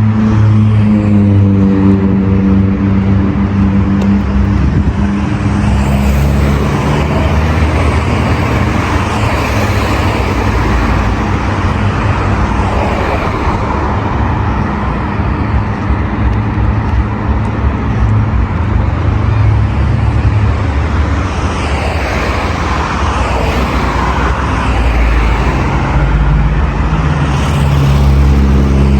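Busy road traffic: cars running past with engine and tyre noise, and the steady hum of a nearby engine at the start and again near the end.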